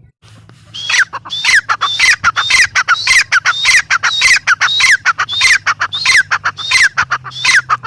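Grey francolin calling: a loud, harsh, rapidly repeated series of notes, each ending in a falling slur, about two a second, starting about a second in.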